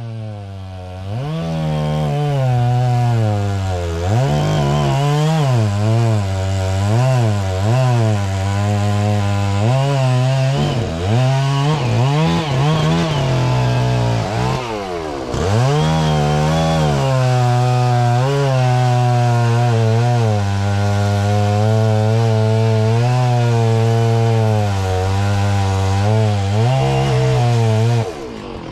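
Chainsaw running at high revs while cutting into a tree trunk, its pitch dipping and recovering again and again as the throttle is eased and the chain loads in the wood, with one deep dip about halfway through. Near the end the throttle is released and the saw drops back.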